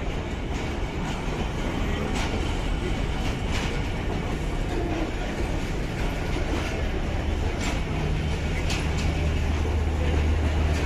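Train running on the rails: a steady low drone with a few sharp clicks along the way.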